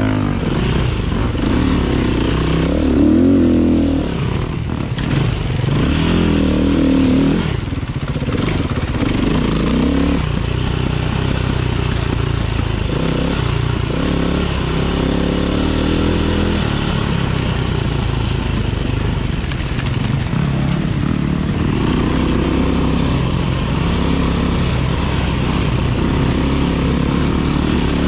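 KTM 500 EXC single-cylinder four-stroke enduro engine running hard on a cross-country course, its revs rising and falling through the first ten seconds and then holding steadier.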